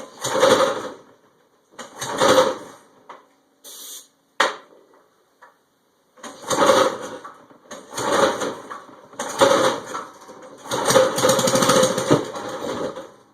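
Old 8 hp single-cylinder small engine with a straight pipe being pull-started: about six pulls on the recoil starter, each cranking it over for a second or so, with pauses between; the last pull, about eleven seconds in, goes on longest. It does not catch and run, which the owner puts down to a lack of compression.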